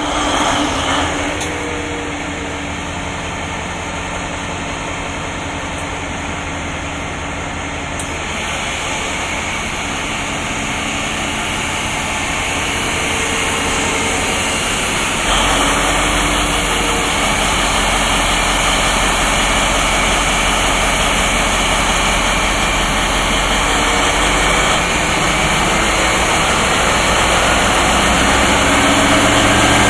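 Class 218 diesel locomotive's MTU V12 diesel engine catching at once and running loud. About halfway through the low rumble steps up, and the sound climbs slowly toward the end as the engine revs up.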